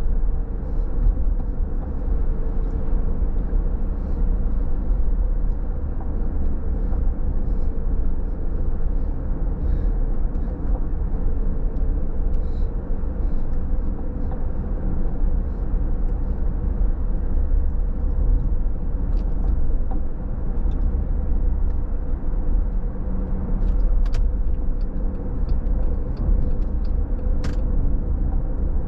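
A car driving on a wet road at night: a steady low rumble of road and tyre noise with a faint steady hum. Faint scattered ticks sit on top, with two sharper ones near the end.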